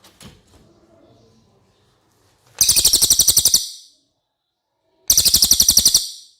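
Cililin songbird giving two rapid trilling bursts of about a second each, a fast run of sharp high notes, the second burst following about two and a half seconds after the first.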